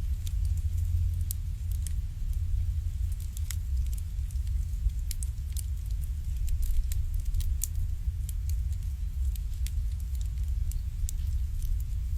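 Wood fire burning in an irori sunken hearth, crackling with irregular sharp snaps and pops over a low, steady rumble.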